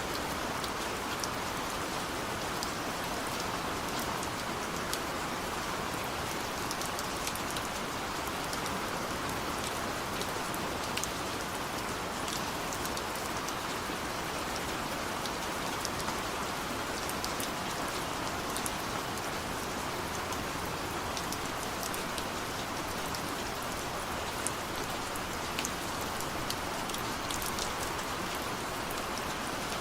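Steady heavy rain falling on a forest, an even hiss with many sharp drop ticks on top.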